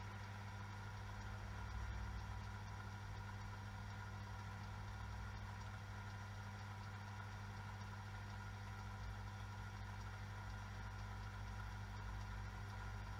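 Top-loading washing machine running with a steady, faint low hum and no breaks or knocks.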